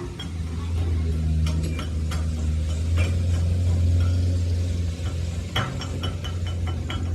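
A machine running with a steady low hum, with scattered metallic clicks and clinks of metal parts over it, coming thickest in a quick run near the end.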